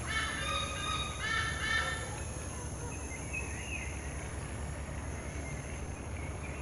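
Bird calls: a quick series of short, harsh calls at the start and another series about a second in, then a single fainter call, over a steady low background hum.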